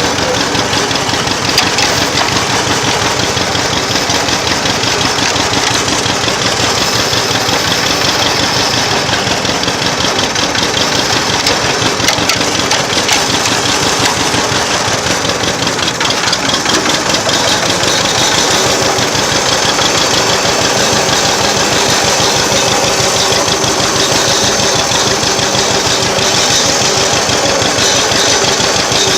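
Old tractor engine running steadily at a low, even speed, with a fast, regular firing beat, heard from the driver's seat.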